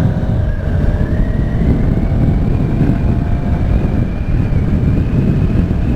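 Honda CB500X's parallel-twin engine with an aftermarket exhaust, running under way. Its note climbs gently over the first two or three seconds, then holds steady.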